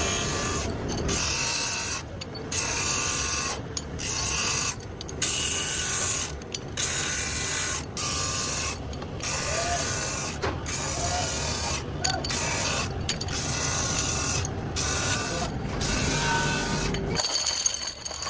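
Brake-shoe factory machinery working in short repeated cycles: a harsh, hissing mechanical rattle broken by brief pauses about every second or so.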